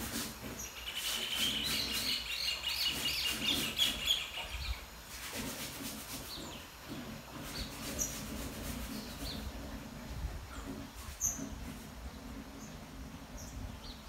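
Birds chirping: a rapid chattering run of high notes from about one second in to nearly five seconds, then scattered short chirps, over a low steady hum.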